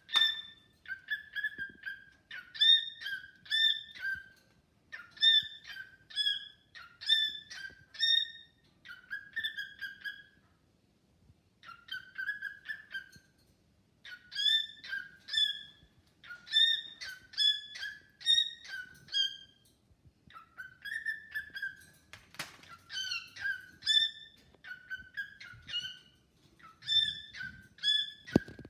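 Pet cockatiel whistling its song: short phrases of clear, repeated whistled notes, over and over with only brief pauses. About two-thirds of the way through there is a single short rustle or knock.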